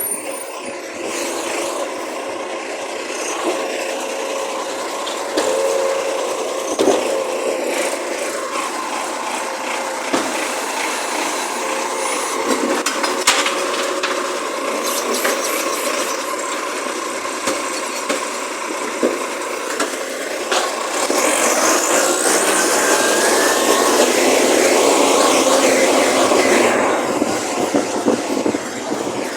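Waste collection truck working: steady mechanical running noise with scattered knocks and clanks, growing louder about 21 seconds in with a rising whine.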